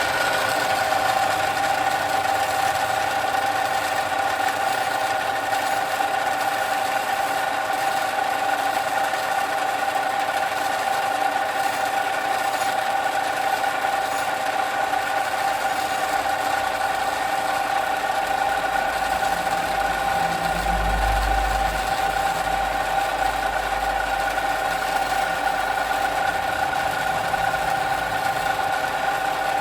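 A workshop power tool's motor running steadily at constant speed: an even hum with a steady whine over a hiss of working noise.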